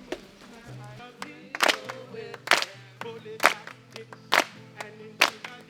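Hand claps on a steady beat, about one a second, over a guitar that starts playing about a second in: the opening of a group song.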